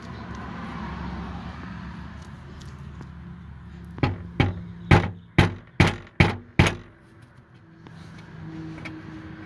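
Seven sharp knocks in quick succession, a little under half a second apart, starting about four seconds in, from the side skirt trim being struck while its new clips are seated.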